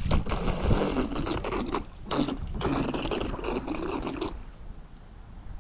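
Water splashing and sloshing in uneven bursts for about four seconds, then dying away.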